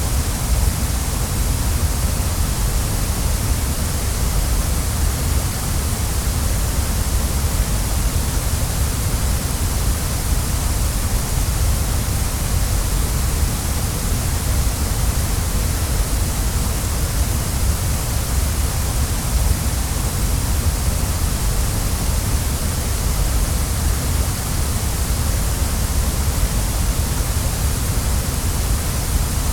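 Waterfall: a steady, unbroken rush of falling water, full from deep rumble to high hiss.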